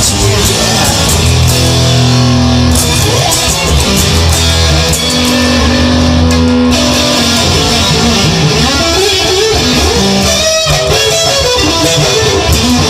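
Instrumental break of a rock song: electric guitar played over a bass line, with some notes bent in pitch about eight to ten seconds in.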